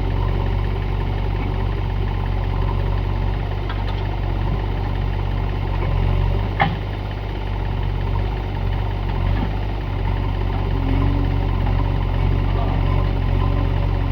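JCB 3DX backhoe loader's diesel engine running steadily at low revs, with a single sharp knock about six and a half seconds in.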